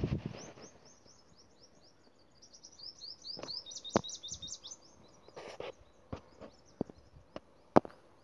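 A songbird sings a rapid string of high chirps, each sliding down in pitch, for the first four seconds or so. Sharp clicks and taps come at irregular moments through the rest, the loudest near the end.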